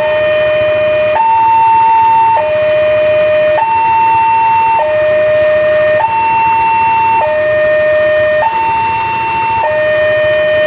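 Railway level-crossing warning alarm sounding a two-tone electronic hi-lo signal, switching evenly between a low and a high note about every 1.2 seconds. It signals that the crossing gate is closing for an approaching train.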